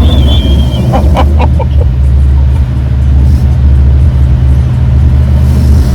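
Steady, loud low rumble of an automatic drive-thru car wash working over the car, heard from inside the cabin, with a brief vocal sound about a second in.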